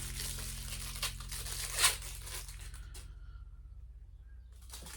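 Rustling, crinkling handling noise with a few sharp knocks, the loudest about two seconds in, from rubber cush drive inserts being handled and fitted into a motorcycle rear hub. A low steady hum runs underneath, and the rustling drops away for a second or two before returning near the end.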